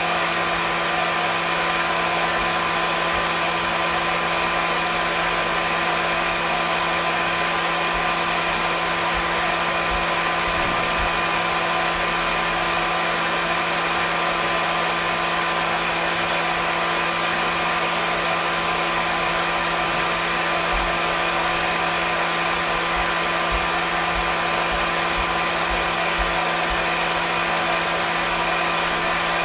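Electric hair dryer running steadily: an even rushing of air with a constant motor hum and whine underneath, unchanging throughout.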